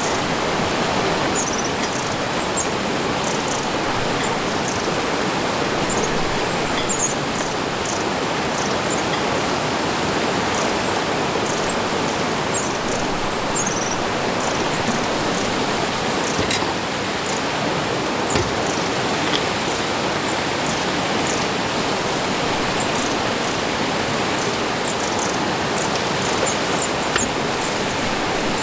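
Steady rushing of river water. Faint, short high chirps are scattered over it, and there is a single sharp click about eighteen seconds in.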